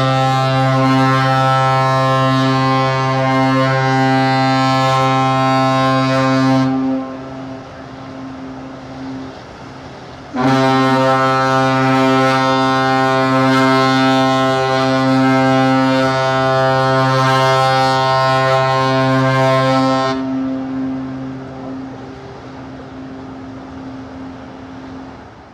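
Ship's horn of the cruise ship Asuka II sounding two long, steady blasts as she leaves her berth, the first about seven seconds and the second about ten, with a fainter lingering tone after each.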